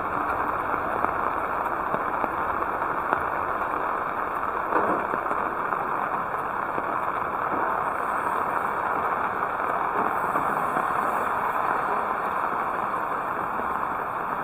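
Heavy rain falling steadily, a dense even hiss with a few sharper ticks of drops scattered through it.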